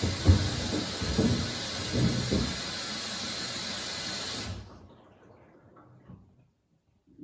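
Samsung WD70T4047CE washing machine's inlet valve letting water in with a steady hiss, which cuts off sharply about four and a half seconds in: one stage of its gradual water filling. Low knocks sound under the hiss for the first couple of seconds.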